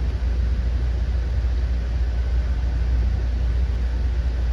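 Commuter train running steadily, heard from inside the passenger car: an even low rumble of the wheels on the rails and the running gear.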